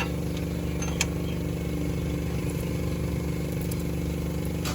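Toyota Corolla GLI engine idling steadily, with one sharp click about a second in.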